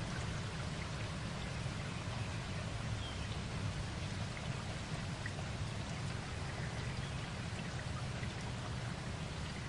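Steady rain falling: an even hiss with a deep rumble underneath and scattered drip ticks.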